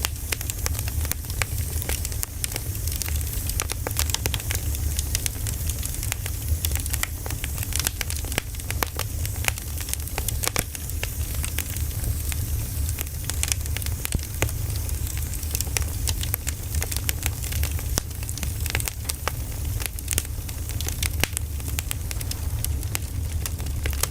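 Firewood logs burning, crackling with many small irregular pops over a steady low rumble.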